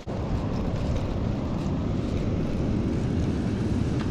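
Steady rumbling wind noise buffeting the action-camera microphone while riding a bicycle, starting and stopping abruptly.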